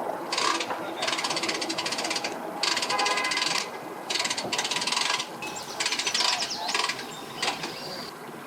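Hand-cranked boat trailer winch ratcheting as a boat is winched up onto its trailer: spurts of rapid clicking, one after another, with short pauses between cranks.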